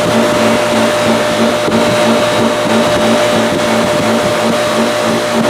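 Small Harbor Freight bench buffer running steadily with a rouge-charged buffing wheel, polishing a steel tool: a constant motor hum with one steady tone and a fast, even low pulsing.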